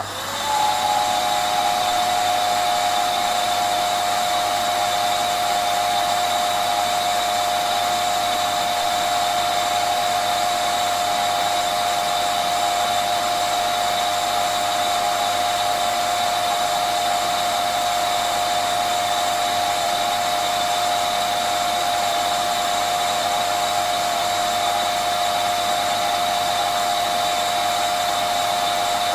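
Vacuum cleaner switched on: the motor spins up within the first second, then runs steadily with rushing air and a constant whine.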